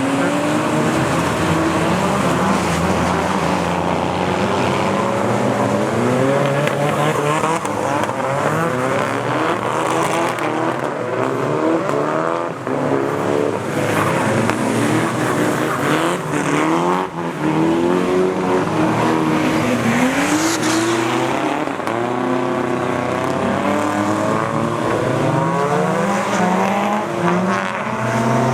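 Drift cars' engines revving hard on a wet course, the pitch climbing and dropping again and again as the throttle is worked through the slides, with tyre noise underneath.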